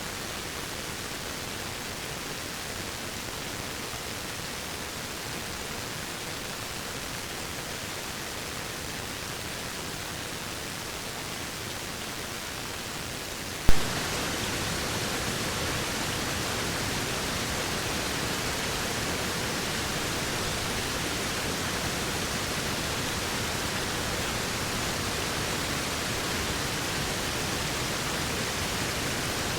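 Waterfall rushing steadily. About halfway through, a single sharp click, after which the rush is louder and brighter.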